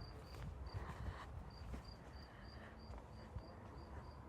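Cricket chirping faintly: a steady series of short, high-pitched chirps, about three a second.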